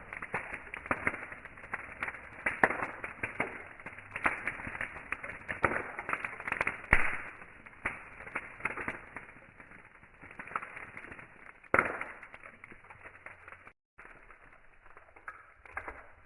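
Wood campfire crackling and popping, sharp pops close together at first and thinning out over the second half.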